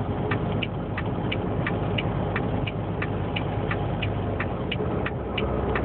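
A truck's hazard flasher ticking steadily about three times a second over the low, steady drone of its engine in the cab.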